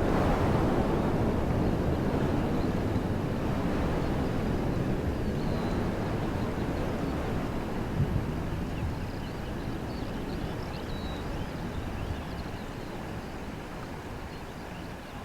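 Wind blowing through trees: a gust of low rushing noise that gradually dies down, with faint high bird chirps in the second half.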